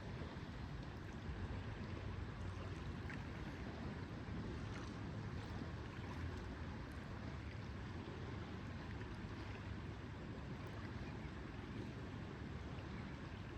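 Lakeside ambience: a steady, even wash of lake water and wind, with a few faint ticks scattered through it.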